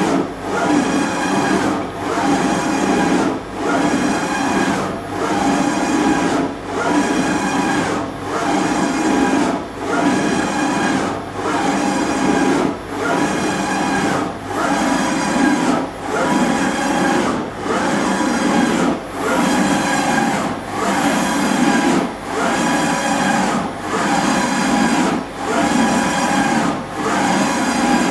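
BRAND 850 NE CNC surface grinder running, its table stroking back and forth under the spinning wheel. The sound swells and dips in a steady rhythm about every 1.3 seconds, with a steady hum from the spindle under it.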